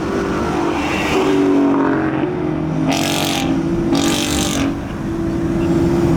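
Ford Mustang GT's V8 running through a new MBRP full exhaust, heard on the road. Its note shifts in pitch, with two brief loud rushing bursts about three and four seconds in.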